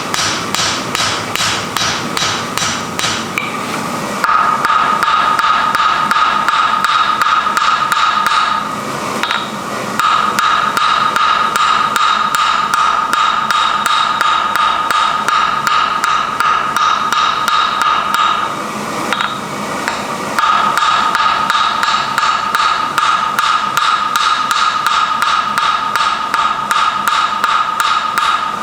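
Steady, rapid hammer blows on metal at the forge, each with a ringing tone. They come in long runs of about four or five blows a second, with two short pauses.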